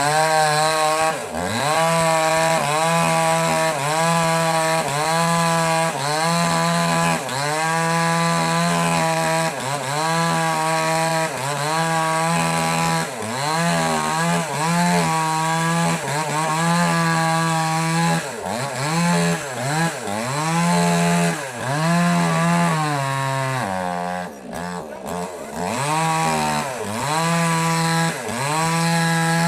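Small petrol chainsaw cutting wood, its engine pitch dipping and rising again about once a second as the chain bites and the throttle is worked. About three-quarters of the way through the engine sags lower for a moment before picking up again.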